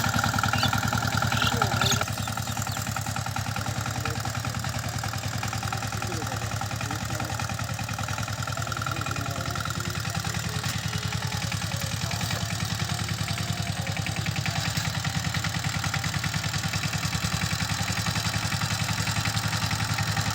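A 16 HP diesel power tiller engine running steadily with an even, rapid chug, a little louder for the first two seconds.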